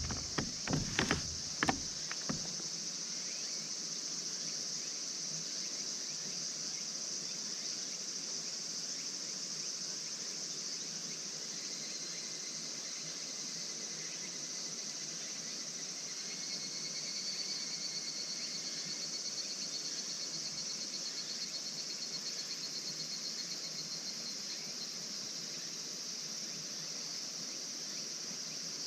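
A steady, high-pitched chorus of insects. About halfway through, a closer insect adds a fast pulsing trill for several seconds. A few sharp knocks sound in the first two seconds.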